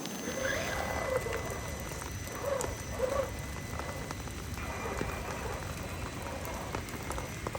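Steady rain falling, with a few short rising-and-falling calls in the background.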